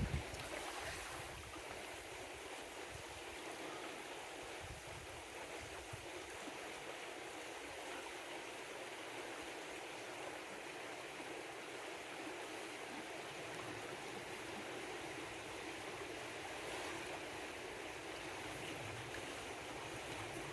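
Small upland stream running steadily over stones, an even rushing of water, with a brief low thump right at the start.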